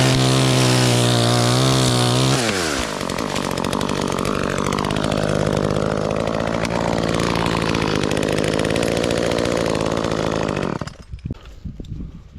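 Chainsaw engine running at high speed, dropping to a lower steady speed after about two seconds, then cutting out near the end, followed by a few faint knocks.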